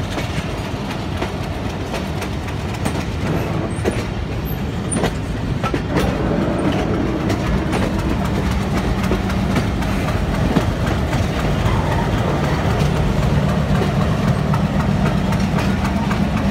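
Passenger train running slowly, heard from aboard a coach: a steady rumble of the wheels with scattered clicks over rail joints. A low steady hum comes in about six seconds in and grows louder toward the end.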